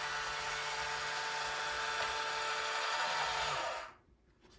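Huina 1582 RC dump truck's electric tipper motor and gearbox whirring steadily as the dump bed is lowered, stopping about four seconds in.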